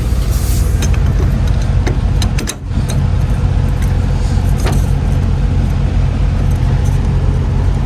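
Semi truck's diesel engine running with a steady deep rumble, with a few sharp clicks and rattles in the first couple of seconds and another about halfway through. The sound dips briefly about two and a half seconds in.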